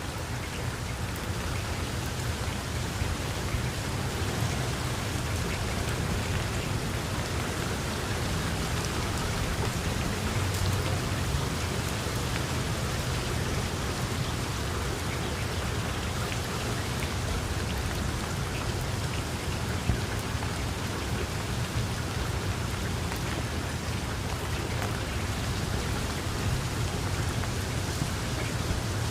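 Heavy rain falling steadily: a dense, even hiss of drops with a low rumble underneath that swells slightly about ten seconds in.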